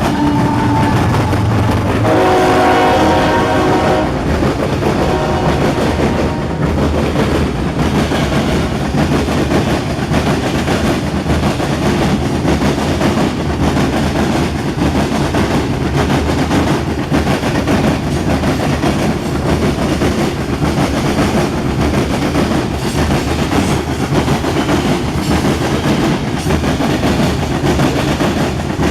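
CSX freight train passing close by. The locomotive's air horn sounds twice in the first six seconds over the engine rumble, and the rest is the steady rumble of the freight cars with rhythmic clickety-clack from the wheels on the rail joints.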